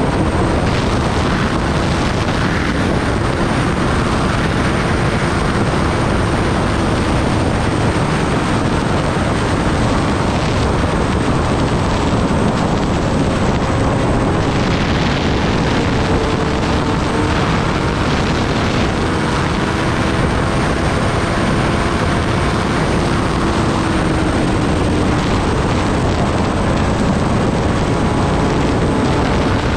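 Kawasaki Ninja ZX-10R inline-four heard while riding, mostly buried under a steady rush of wind on the microphone. The engine's note drifts slowly up and down beneath the noise.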